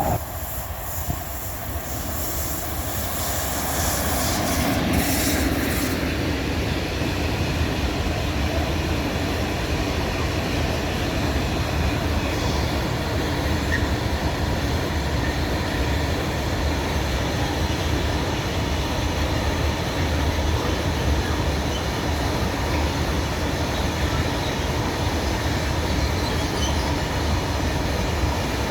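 Passenger train of coaches running along the track, a steady rumble of wheels on rail that builds over the first few seconds and then holds.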